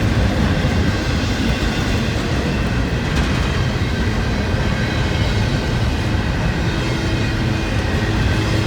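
Freight train rolling past close by: a steady rumble of railcars on the rails.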